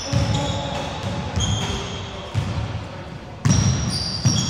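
Basketball bouncing on a wooden court floor, several irregular thumps with the loudest about three and a half seconds in. Short high sneaker squeaks on the court come in between.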